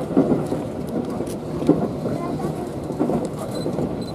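Tobu 8000-series electric train running, heard from inside the car: a steady rumble of wheels on rail with a few short knocks.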